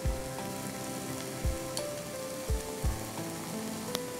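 Curried tomato, onion and kidney-bean mixture sizzling gently in a non-stick pan as a steady hiss, with a few soft low thumps.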